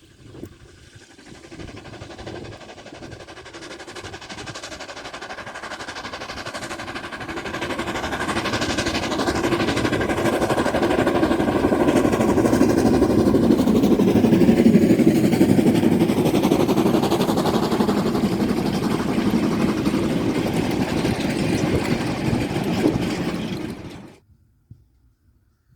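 Steam locomotive hauling a train past, growing steadily louder as it approaches, loudest a little past halfway, then cutting off suddenly near the end.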